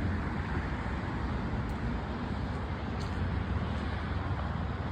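Steady low rumble of vehicle and road traffic noise.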